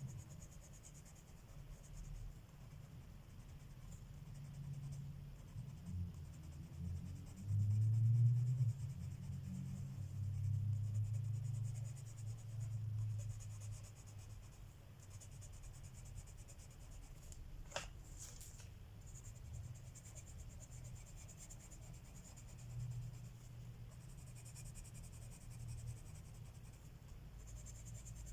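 Coloured pencil scratching and rubbing on paper in repeated shading strokes, heaviest about a third of the way in. A single sharp click about two-thirds of the way through.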